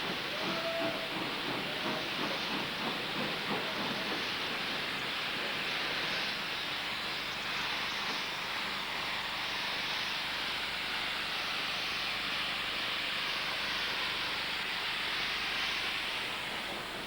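Steam locomotive pulling away: quick chuffs for the first few seconds, then a steady hiss of escaping steam.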